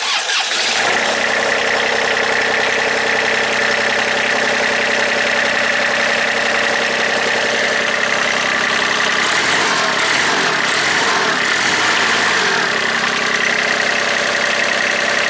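Kubota D1105 three-cylinder diesel engine of a ride-on vacuum running steadily at idle, coming in abruptly at the very beginning, with a steady high whine over it.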